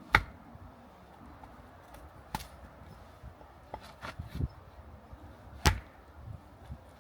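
Three sharp chopping strikes two to three seconds apart, with a few lighter knocks between the second and third.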